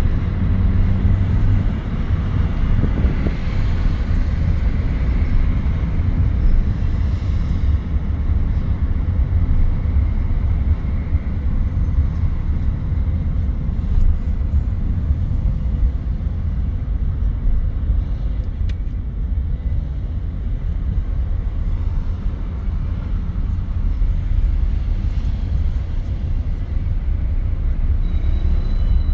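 Car interior noise while driving in traffic: a steady deep rumble of engine and tyres on the road, heard from inside the cabin.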